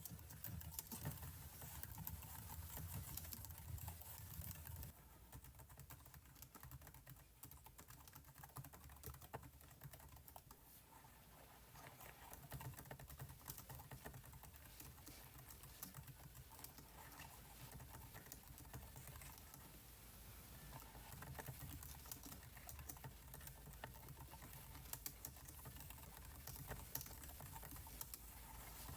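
Faint, irregular clicking of computer keyboard keys, tapped in short runs, busier in the first few seconds and again toward the end.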